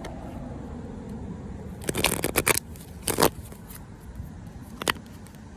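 Playing cards being shuffled and handled: several short rustling riffles, the longest cluster about two seconds in, then single ones after three seconds and near five seconds.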